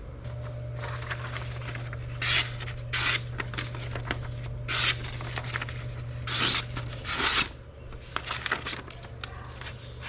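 A series of short, irregular scraping or rubbing strokes, about six of them, each under a second, over a steady low hum.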